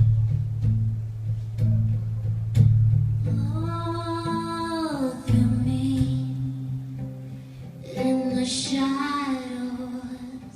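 Acoustic guitar intro, chords struck every second or so over a low bass note, with a wordless sung vocal line held and gliding for a couple of seconds twice.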